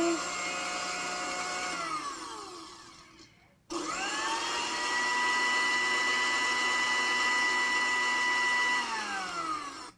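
Electric blender motor whining at a steady high pitch, then winding down and stopping about three seconds in. It starts again at once, spinning up to speed, runs steadily for about five seconds, and winds down near the end.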